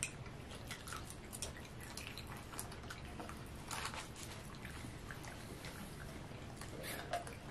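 Faint eating sounds: quiet chewing and small wet mouth clicks scattered throughout, over a low steady room hum.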